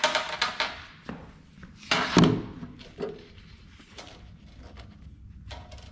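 Scattered clicks and knocks of metal parts being handled, with one louder clunk about two seconds in.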